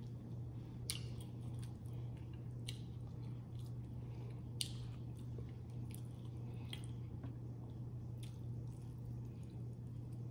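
A person chewing food close to the microphone, with wet smacking and squishing mouth sounds every second or two, over a steady low hum.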